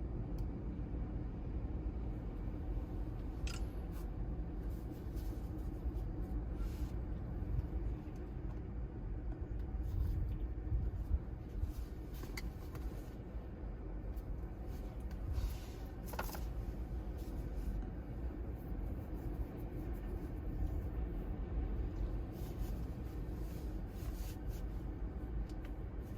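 Steady low rumble of typhoon-driven surf and wind on the microphone, with a few faint clicks.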